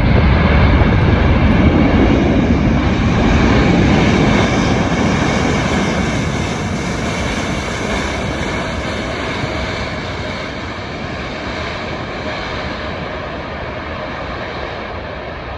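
Jet airliner's engines passing by on arrival: a loud, steady rush of engine noise with a faint high whine, slowly fading over the second half.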